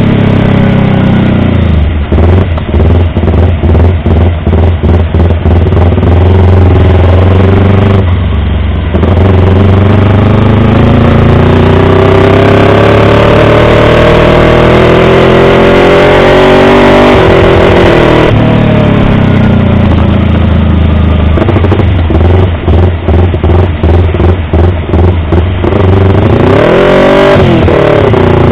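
Yamaha R25 motorcycle's parallel-twin engine revving hard, loud and continuous, its pitch climbing steadily for several seconds in the middle. Two stretches are chopped by rapid, stuttering cut-outs several times a second, and there are brief throttle drops near 8–9 s and around 27 s.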